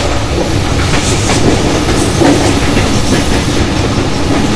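Express passenger train running at speed, heard from on board: a steady loud rumble of wheels on the track with the clack of wheels over rail joints.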